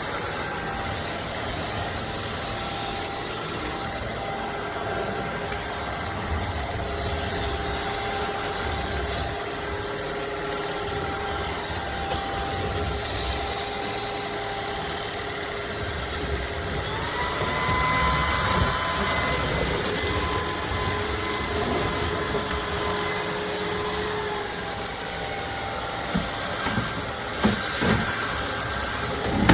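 Cordless stick vacuum motor running steadily. Its whine steps up in pitch about seventeen seconds in, as if switched to a higher power setting, and drops back about seven seconds later. A few sharp knocks come near the end.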